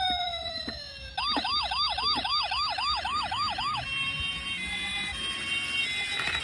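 Electronic toy emergency-vehicle siren: a tone gliding down for about a second, then a fast yelp sweeping up and down about four times a second for a couple of seconds, followed by fainter steady electronic tones.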